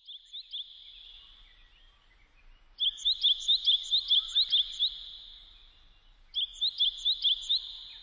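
A small songbird singing phrases of quick, high, rising chirps, about five a second. There are three phrases: a faint one at the start, a loud one about three seconds in, and another a little past six seconds.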